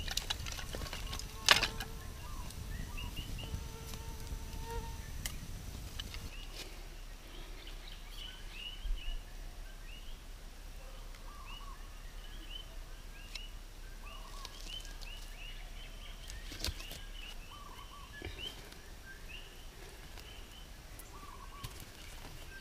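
Birds chirping, short high calls repeating every second or so. A sharp knock about a second and a half in, over a low rumble that stops about six seconds in.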